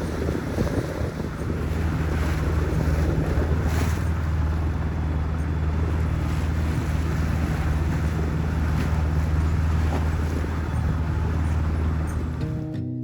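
A sailboat's engine running steadily with a low, even hum, under wind buffeting the microphone and water rushing along the hull. Guitar music comes in near the end.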